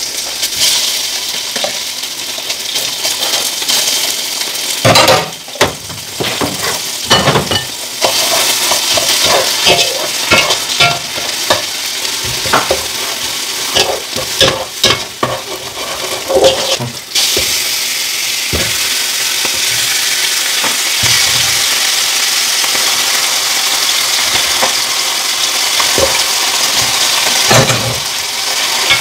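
Chopped onions and tomato paste sizzling in hot oil in a nonstick pot, with a spoon and spatula scraping and clicking against the pan as they are stirred. About two-thirds of the way in, the sizzle grows louder and steadier.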